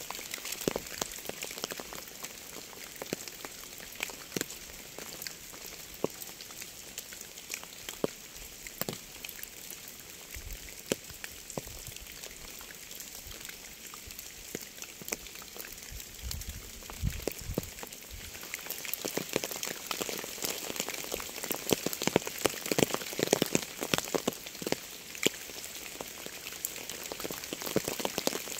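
Rain falling on a surface, a steady hiss full of individual drop ticks. The drops come thicker and louder about two-thirds of the way through. There are two brief low rumbles near the middle.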